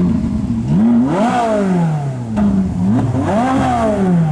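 A car engine revved hard twice through a loud exhaust, its pitch climbing quickly and falling back each time, with a short blip of the throttle between the two.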